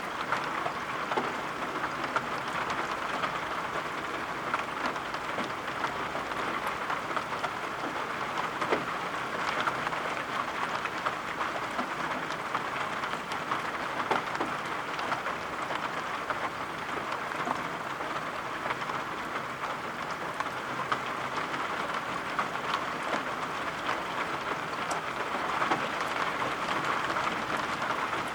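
Steady rain falling, an even hiss dotted with many small taps of individual drops.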